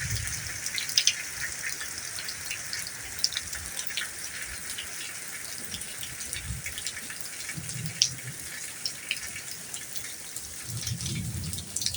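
Rain easing off: a steady light hiss of rainfall with many scattered drips and drops, and a few soft low rumbles.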